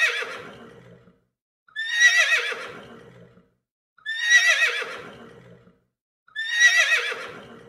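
An equine whinny played as a zebra call: the same high, quavering call four times, about two seconds apart, each one falling in pitch and fading out.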